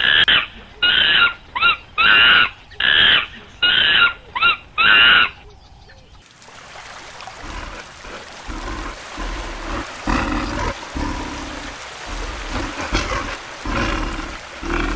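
A run of about seven short, loud animal calls, each about half a second long. About six seconds in they give way to sloshing water with ice chunks knocking together.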